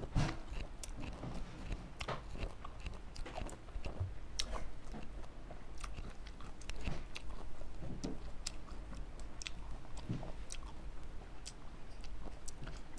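Green grapes being bitten and chewed, a string of irregular crisp clicks and crunches as the skins break.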